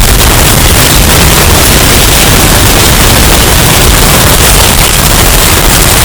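Hurricane wind sound effect, heavily bass-boosted and overdriven: a loud, steady, distorted rush of noise with no let-up.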